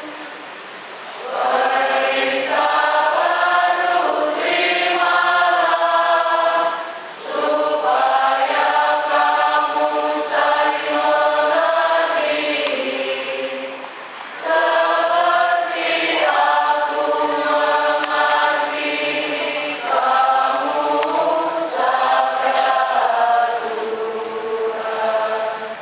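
A choir singing a hymn in unison-style sung phrases, four long phrases with brief breaks between them.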